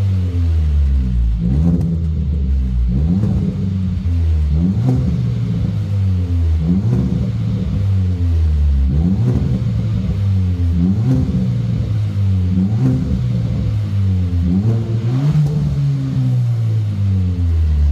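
Hyundai Veloster 1.6 turbo's four-cylinder engine heard through a custom end-section exhaust, revved in short repeated blips about once a second, with one longer rise and fall of the revs near the end.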